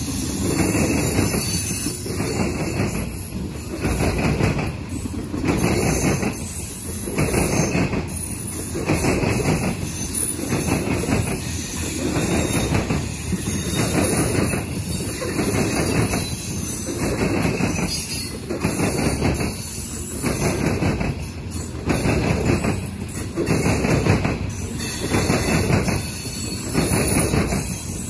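Loaded steel coal hopper cars of a freight train rolling past at close range, wheels clattering on the rails. The clatter swells about every second and a half as each pair of car trucks goes by.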